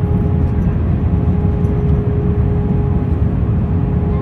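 Cabin noise inside an Airbus A321 in flight: a steady deep rumble of engines and airflow with a thin steady hum on top.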